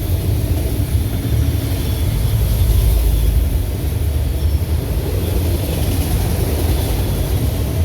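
Train passing, a loud, steady low rumble with no break in it.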